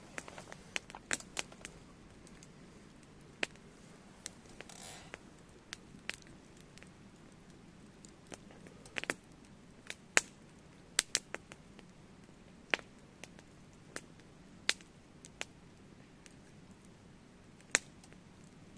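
Wood fire crackling, with irregular sharp pops at uneven intervals over a low steady burning noise.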